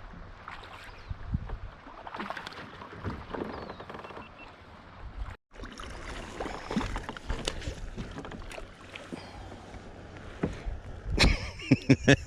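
Water moving against a plastic kayak hull, with scattered small knocks and handling clicks. The sound cuts out sharply about five seconds in, and there are louder knocks near the end.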